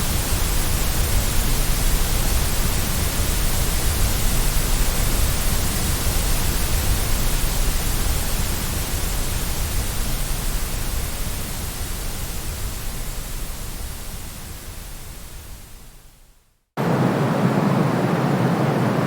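Synthetic white noise for baby sleep: a steady full-range hiss with a deep rumble under it. It fades out over the last few seconds to a moment of silence, then a different noise starts abruptly, a duller hiss with no deep rumble.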